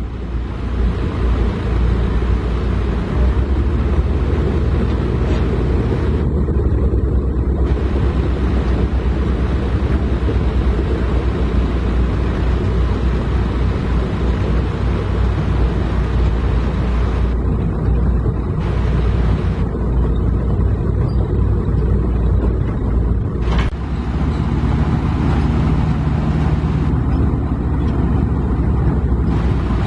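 Heavy diesel engine of construction equipment running steadily at close range, with a sharp knock about 23 seconds in.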